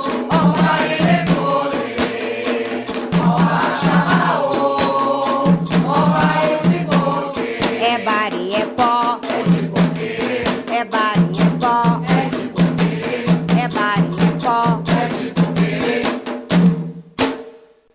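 Afro-Brazilian orixá ritual chant: voices singing a call-and-response style song over a steady, fast pattern of hand-drum strikes. The music fades out shortly before the end, and a new song's voices begin right at the close.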